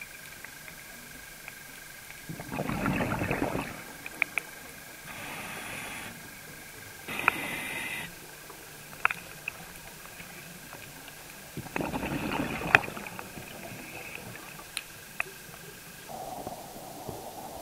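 Scuba regulator breathing underwater: separate bursts of breath and bubbles, the loudest about two and a half seconds in and again near twelve seconds, with shorter, higher hisses between them. Under it runs a faint steady high whine with scattered sharp clicks.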